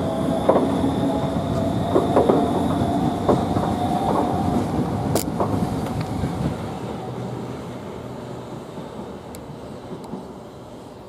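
Southeastern Class 395 high-speed electric train pulling away, with a steady whine and wheels clicking over rail joints. It fades steadily over the second half as it leaves.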